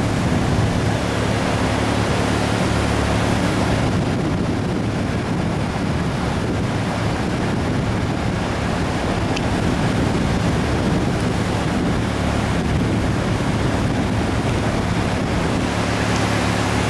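Flood-swollen river rushing past in a steady, unbroken wash of water noise, the river running high after a typhoon.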